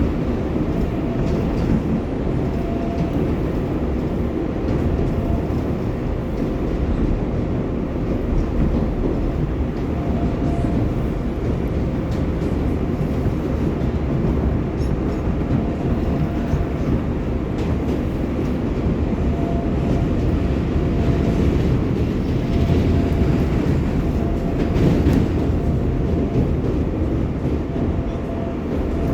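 R188 subway train of the 7 line running between stations: a steady rumble of wheels on rail, with a thin motor whine that comes and goes several times.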